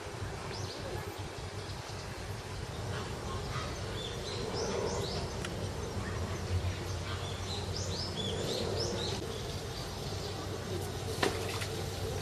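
Small birds chirping in short repeated notes over a steady low background hum, with one sharp click about eleven seconds in.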